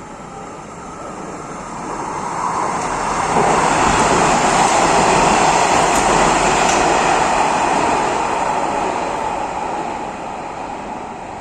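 Metro train passing by: a rushing rumble that swells over a few seconds, holds, then fades away.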